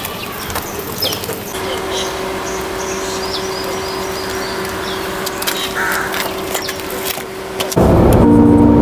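Outdoor ambience with birds chirping and calling over a steady hum. About eight seconds in, it cuts to louder background music.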